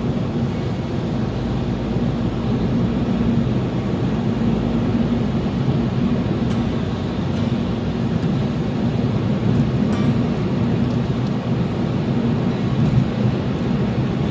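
Steady rumble of a car driving along the road, tyre and engine noise with no break.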